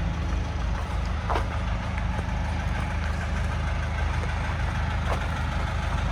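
Ford 555 backhoe engine running steadily as the machine works through brush and downed trees, with a few short sharp snaps over the drone.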